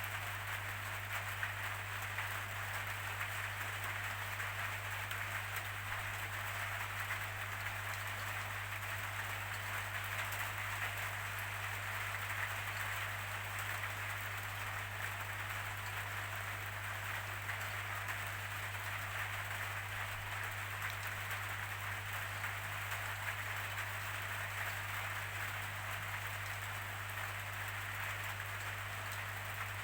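Steady rainfall, an even continuous patter of rain without breaks, over a constant low hum.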